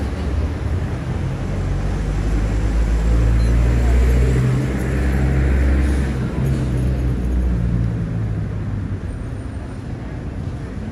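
Street traffic: a motor vehicle's engine running close by, a low rumble with a steady hum that is loudest around four to six seconds in, then fades.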